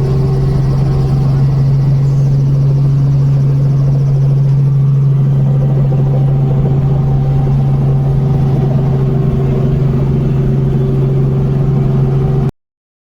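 Helicopter's engine and rotors heard from inside the cabin as a loud, steady, low drone, cutting off abruptly near the end.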